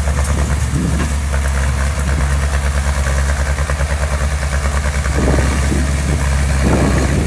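Diesel engine of heavy construction equipment running steadily with a fast, even beat; from about five seconds in it works a little harder and grows slightly louder.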